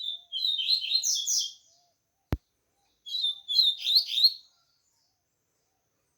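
Caged Sporophila seedeater singing two short phrases of fast, high chirping notes with a pause between them, and a single sharp click in the pause. The bird is just out of its moult and only starting to sing fully.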